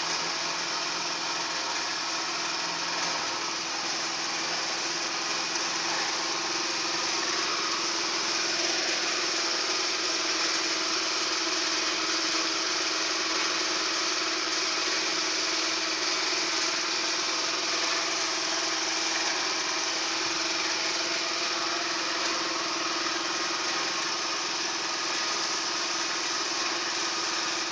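Small machine running steadily with an even hiss, typical of an air compressor feeding a spray gun for painting.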